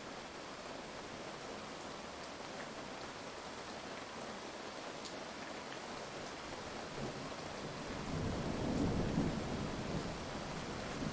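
Steady heavy rain, with a low roll of thunder building up about two-thirds of the way in and rumbling for a few seconds.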